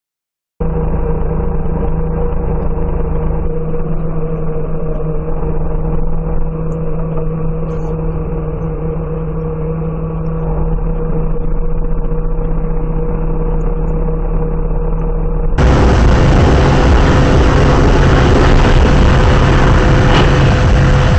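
Steady car engine and road noise picked up by a dashcam microphone. About fifteen seconds in, the sound changes abruptly to a louder, brighter rush of road noise.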